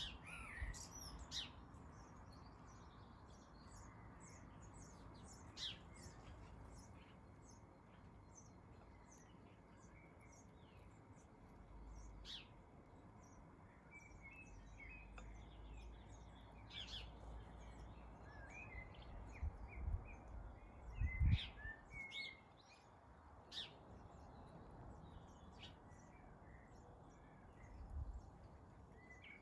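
Garden birds chirping, with many short, high calls scattered through, over a faint low rumble. A dull thump about two-thirds of the way in.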